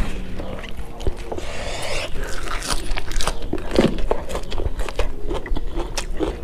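Close-miked eating: raw pea shoots crunching between the teeth, then chewing with many wet mouth clicks and smacks.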